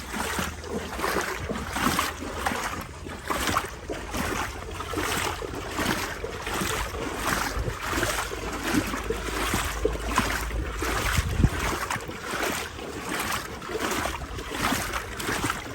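Legs wading through floodwater more than a foot deep, sloshing and splashing in a steady rhythm of about one and a half strides a second. Wind rumbles on the microphone underneath.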